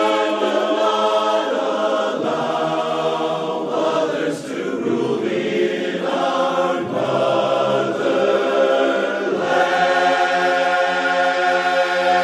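Choral music: a choir singing long held chords that change every two to three seconds.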